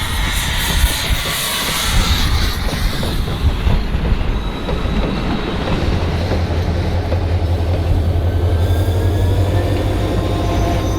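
Passenger train rolling past in push mode: coaches clicking over the rail joints, with a little wheel squeal. A steady low diesel drone grows stronger from about six seconds in as the shoving locomotive draws near.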